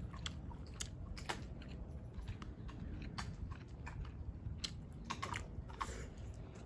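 Close-miked chewing and biting of a mouthful of shrimp and quinoa, with scattered soft clicks of a metal fork in a plastic meal-prep container, over a low wind rumble on the microphone.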